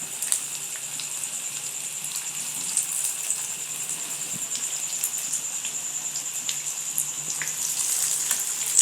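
Shami kebab patties frying in hot ghee: a steady sizzle with many small crackles and pops.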